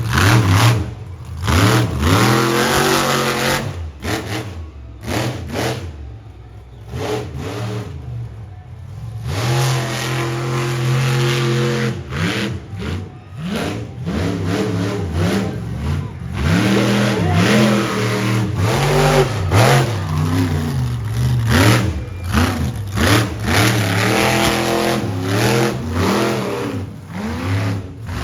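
Monster truck engine revving hard over and over, its pitch climbing and falling with each blip of the throttle. It eases off for several seconds about four seconds in, then revs again.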